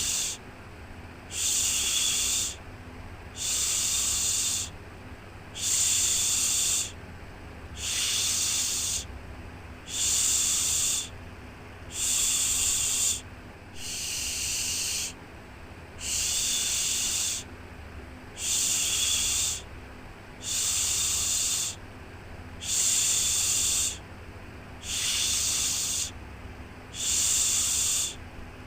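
A rhythmic baby-soothing 'shhh' shushing sound: each hiss lasts about a second and repeats roughly every two seconds, about fifteen times, over a faint steady low rumble.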